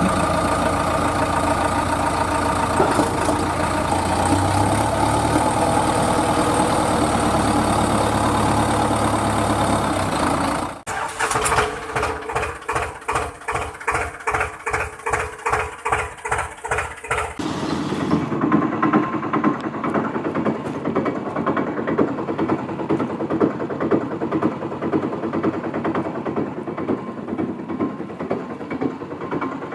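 Tractor engine sound running steadily. About eleven seconds in it changes to an even chugging of two or three beats a second, and after about six seconds it gives way to a rougher running sound.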